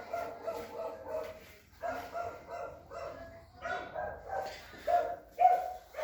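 A dog barking repeatedly, a string of short pitched calls.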